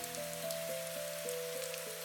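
Soft, slow piano music with a new low note about every half second, over steady rain with scattered drop ticks.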